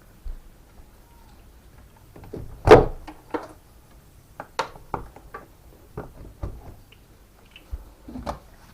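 Scattered clicks and knocks of metal parts and tools being handled, with one loud knock about three seconds in.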